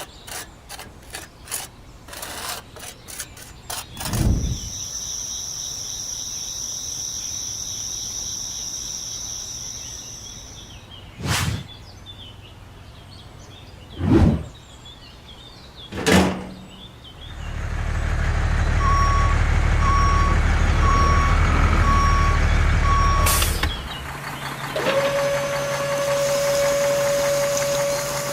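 A truck engine rumbling with a reversing beeper beeping steadily over it, about a beep every second. Before it come a run of rapid clicks, a steady high whine and three heavy thumps; after it, a long steady tone.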